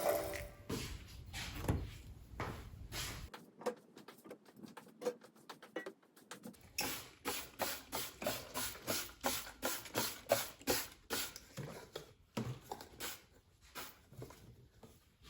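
A quick run of light taps and clicks with some rustling, sparse at first, then a fairly steady two or three small taps a second from about six seconds in.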